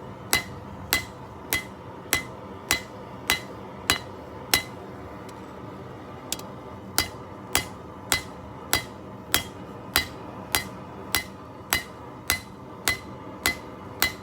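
Hand hammer striking hot steel on an anvil in a steady rhythm, about one blow every 0.6 seconds, each with a short ring; the blows draw out and widen the steel for a blade. The hammering stops for about two seconds a little before the middle, then picks up again.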